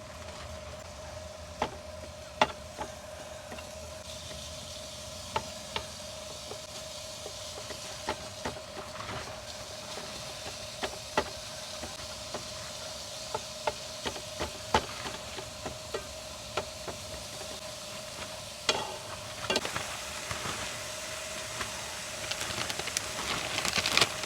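Food sizzling in a frying pan on a stove, with scattered sharp clicks and taps from a utensil stirring against the pan and a faint steady hum underneath. The sizzle grows louder near the end.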